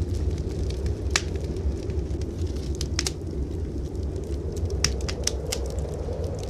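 Wood fire in a fireplace crackling, with sharp pops about a second in, at about three seconds, and a quick cluster near the end, over a steady low rumble of blizzard wind.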